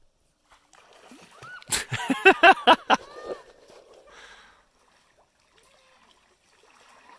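Water splashing close by: a quick run of about five loud splashes in just over a second, then fainter sloshing and lapping.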